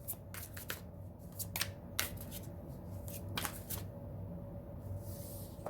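A deck of tarot cards being shuffled and handled by hand: scattered sharp card snaps and flicks at irregular intervals, with a short papery slide about five seconds in.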